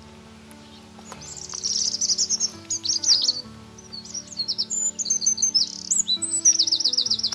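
A songbird singing loud, high, rapid trilled phrases and repeated notes, starting about a second in, over soft background music with sustained notes.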